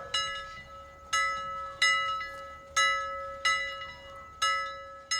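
A bell-like chime struck about seven times at uneven intervals, each strike ringing out over a steady held tone.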